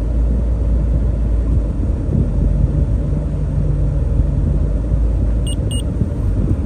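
Steady low rumble inside the cabin of a 1986 Chevrolet Corvette with its engine running. Two short high beeps come close together about five and a half seconds in.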